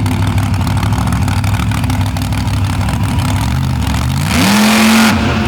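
Monster truck's big Vance-built engine running hard and unevenly, then revving up about four seconds in and holding at high revs.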